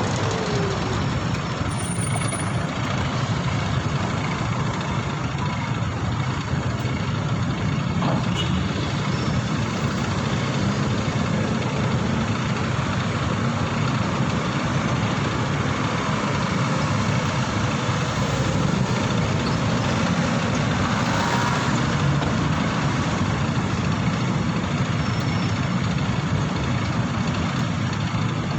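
Steady engine and traffic noise with road and wind rush, heard from a moving motorcycle in city traffic.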